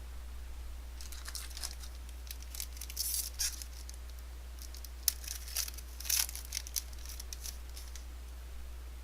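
A trading-card pack's foil wrapper being torn open and crinkled, in a run of irregular crackling rips over several seconds.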